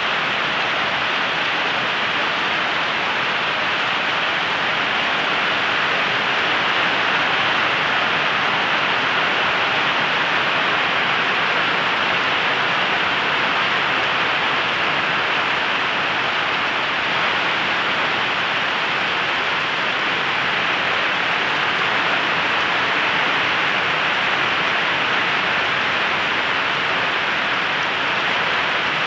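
Heavy rain pouring steadily onto broad leaves and wet ground, an even hiss without breaks.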